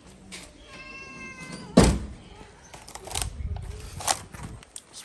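A stray cat gives one meow, followed just after by a loud thump, then a few seconds of scuffling and rustling knocks.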